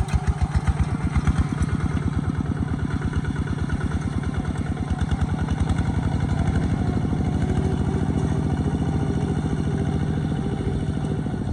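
Kubota ZT140 walking tractor's single-cylinder diesel engine chugging in a steady beat of firing pulses. About six seconds in, the beat quickens and runs a little louder.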